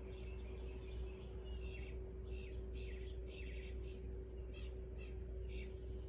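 Short, high bird chirps in quick clusters, busiest in the middle and fainter near the end, over a steady low hum.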